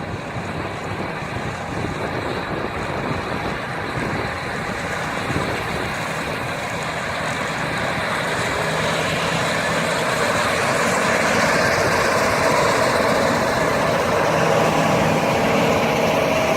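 Combine harvester running, its engine getting steadily louder from about halfway through as it comes closer.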